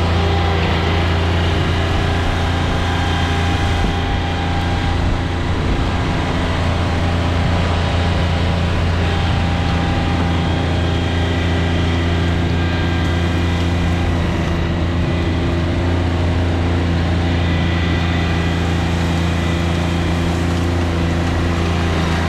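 John Deere 2320 compact tractor's three-cylinder diesel engine running steadily at a constant speed, with a strong low hum.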